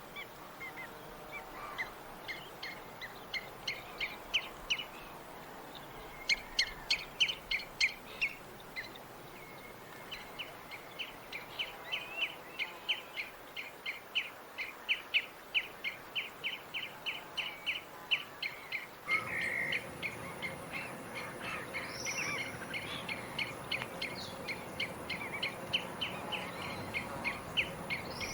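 Tropical birds chirping: long runs of short, quick chirps at a few per second, over a steady background hiss. About two-thirds of the way through, the hiss grows louder and a thin, high, steady tone joins it.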